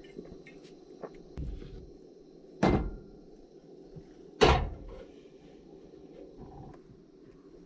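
Two loud thuds about two seconds apart, over a low steady hum.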